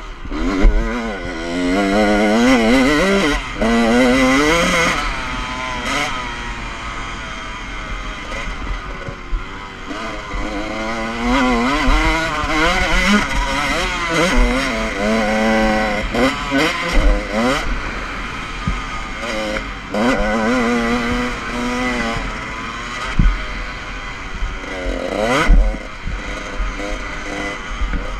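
Motocross dirt bike engine revving hard and easing off again and again, its pitch climbing and dropping as the bike accelerates and slows around the track. A couple of sharp knocks come near the end.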